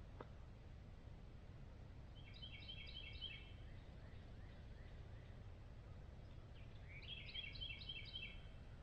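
A bird calls twice, a few seconds apart. Each call is a quick run of about four high notes lasting about a second, over a low, steady rumble.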